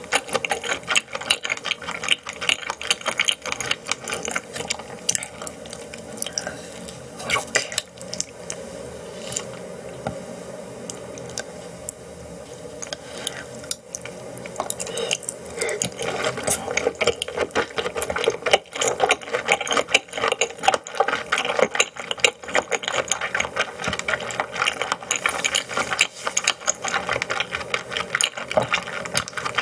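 Close-miked eating sounds: a person chewing raw yellowtail sashimi, with dense quick wet clicks and smacks. The clicking thins for a few seconds in the middle, then picks up again.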